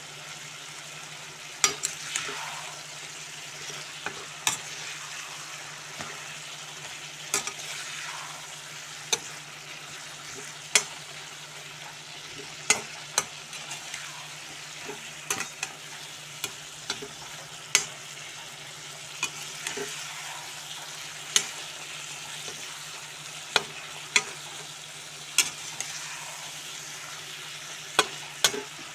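Chicken, onions and spring onions sizzling steadily in a wok-style pan while a metal slotted spoon stirs them, clacking sharply against the pan every second or two. The masala is being cooked down until all its water is absorbed.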